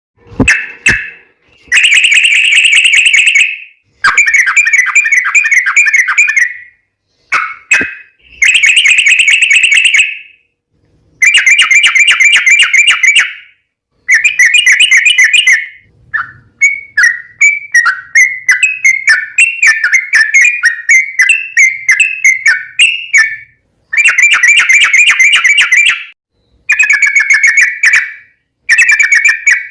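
Yellow-vented bulbul (trucukan) singing loudly in repeated rapid, warbling phrases of one to two seconds each, with short pauses between them. In the middle comes a longer run of quick separate notes, lasting about seven seconds.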